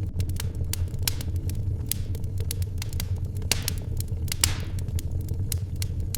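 Wood fire crackling in a fireplace: irregular sharp pops and snaps over a steady low rumble. A louder pop with a brief hiss comes about four and a half seconds in.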